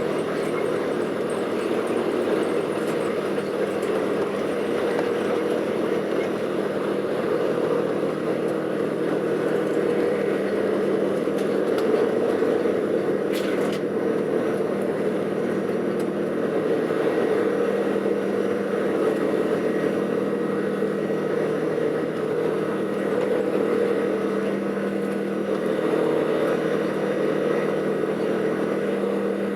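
Steady cabin noise inside an Airbus A380 while it taxis: the engines at low thrust and the air-conditioning rush, with a low hum made of a few steady tones. There is a brief click about halfway through.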